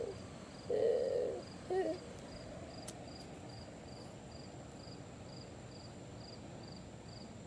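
Insect chirping steadily, about two to three high chirps a second, like a cricket. A short louder sound comes about a second in, a brief blip follows just before two seconds, and a single click comes around three seconds.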